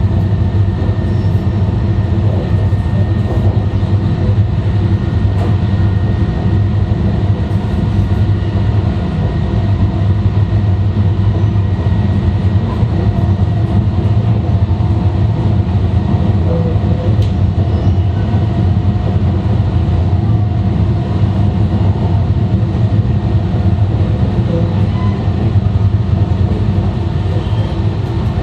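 E2-series Shinkansen train (set N13, Mitsubishi IGBT inverters) running steadily at speed, heard from the vestibule deck of car 5: an even, loud, deep rumble with faint steady tones above it.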